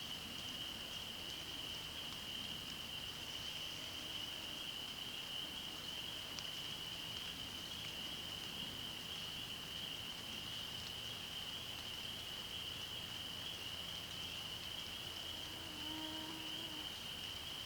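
Continuous high-pitched chorus of small calling animals, one unbroken trilling band, over a soft steady hiss.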